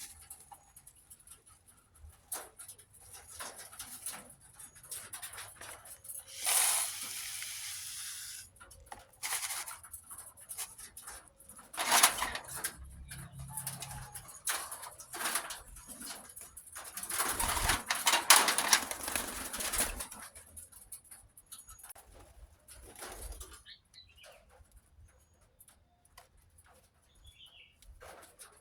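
Crinkling, clicking and rustling of a thin plastic tub being handled and pierced with a heated knife, in several louder bouts, with doves cooing in the background.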